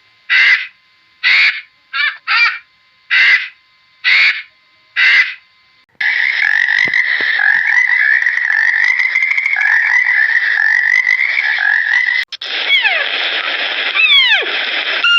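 Animal calls in three abrupt segments. First come about seven short separate calls, roughly one a second. Then a continuous dense chorus of calls, and in the last few seconds a run of falling whistle-like calls.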